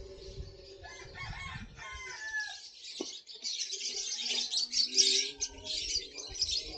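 A bird calling about a second in, several short notes that bend in pitch. From about three seconds in, a louder rough, rustling hiss, high in pitch, takes over until near the end.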